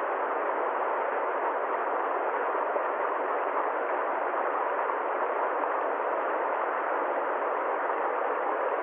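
A steady, even rushing noise that never changes, with nothing below a low hum and no high hiss, and no separate events in it.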